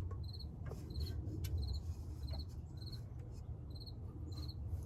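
A cricket chirping steadily, about three short chirps every two seconds, over a low background rumble, with a few faint clicks.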